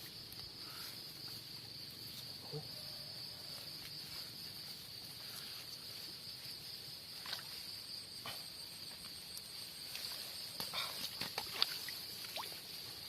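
Insects chirring in a steady high drone, joined by a higher pulsing trill partway through. Several soft clicks and knocks come near the end.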